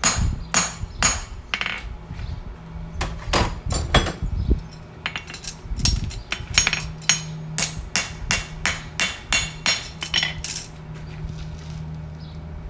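Hand hammer striking a steel horseshoe on an anvil, ringing blows in short runs: a few spaced strikes, a pause, then a steady run of about two to three blows a second that stops near the end.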